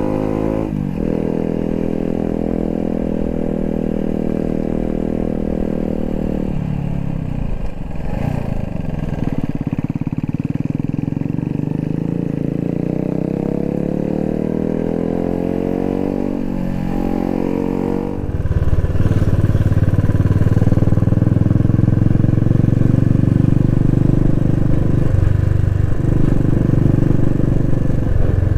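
Royal Enfield Thunderbird 350X motorcycle engine running under way, its pitch holding, falling and rising again as speed and gear change. About two-thirds of the way in it gets louder, with a deeper, heavier note.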